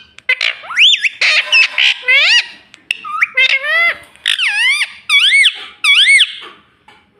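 Pet parrot calling: a rapid string of loud whistled squawks that sweep up and arch down in pitch, mixed with harsher chattering notes, stopping about a second before the end.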